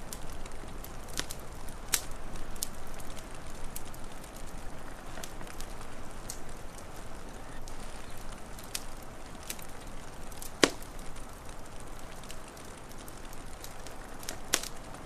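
Wood fire crackling, with irregular sharp pops and snaps over a steady hiss; one pop about two-thirds of the way through is the loudest.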